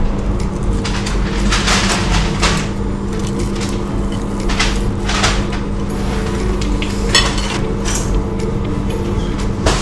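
Knife and fork scraping and clinking on a plate while eating fish and chips: several short scrapes and clicks, the sharpest about seven seconds in, over a steady background hum.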